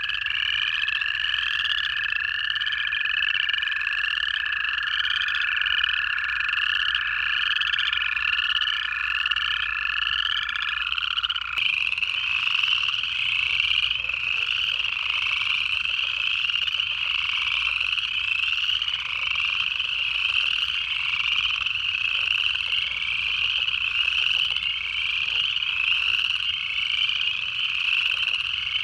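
A dense chorus of upland chorus frogs, many overlapping rising trills repeating again and again. For the first ten or so seconds, one and then two long, steady-pitched American toad trills run beneath the chorus, stopping about eleven seconds in.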